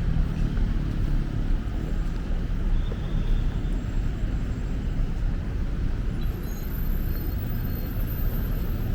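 Road traffic on a busy city street: a steady low rumble of car and bus engines and tyres passing close by.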